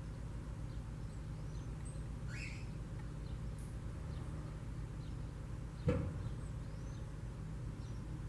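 Short, faint bird chirps scattered over a steady low rumble, with one sharp knock about six seconds in.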